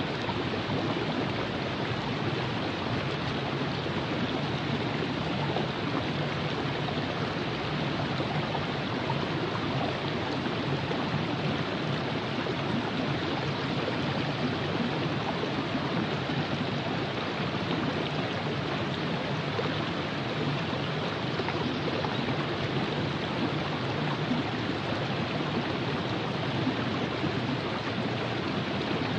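Virgin River flowing: a steady, unbroken rush of running water.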